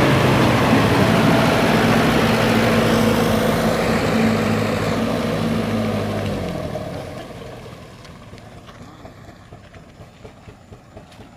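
A vehicle engine runs steadily, then fades away between about six and eight seconds in, leaving a low background hum.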